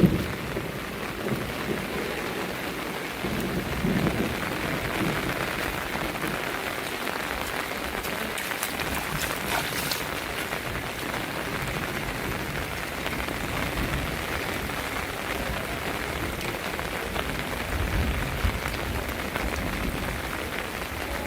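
Heavy rain falling steadily, with a low rumble of distant thunder near the end.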